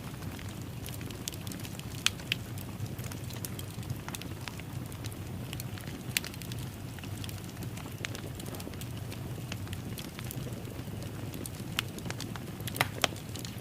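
Wood fire crackling in a fireplace: a steady low rumble of burning with irregular sharp pops and snaps. The loudest pops come about two seconds in, around six seconds in, and as a close pair near the end.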